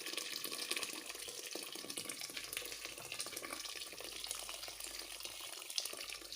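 Hot water being poured into a cooking pot in a steady, continuous pour.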